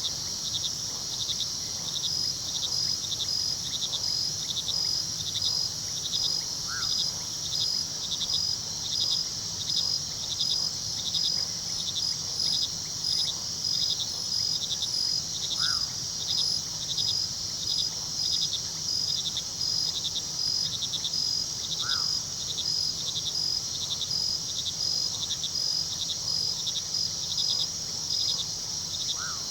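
Crickets chirping in a steady, even rhythm of about two chirps a second over a constant high trill. A short, higher call comes about every six or seven seconds, with the river's low rush underneath.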